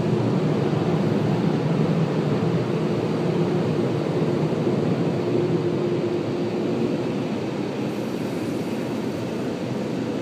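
Automatic car wash air dryers blowing on the car, a steady rush of air with a faint hum, heard from inside the car.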